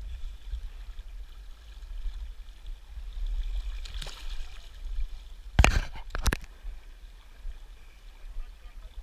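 River water running, under a low rumble, with two sharp knocks a little past the middle, less than a second apart.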